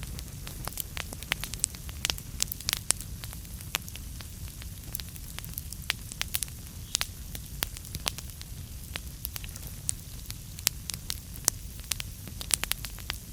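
Wood fire in a fireplace crackling, with frequent sharp irregular pops and snaps over a steady low rumble of the burning.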